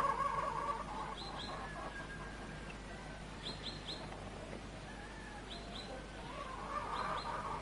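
Small birds chirping outdoors: short high chirps in quick groups of two or three, repeated a few times, over a faint steady background.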